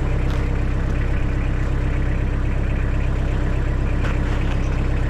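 Engine idling steadily with a constant low drone.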